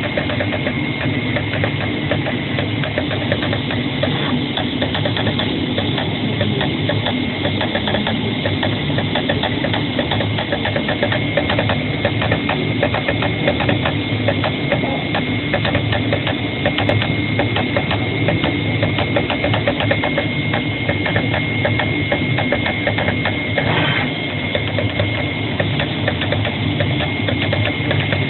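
CNC flatbed cutter running, a rapid, even chatter over a steady hum and a thin high whine.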